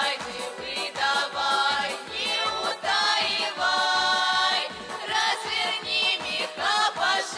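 Music: a vocal group singing a folk-style song in held notes over a backing track with a steady beat.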